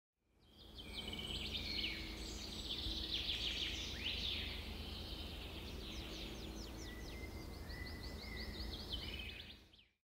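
Several birds chirping and trilling in quick, overlapping calls over a low steady hum. The sound fades in at the start and fades out near the end.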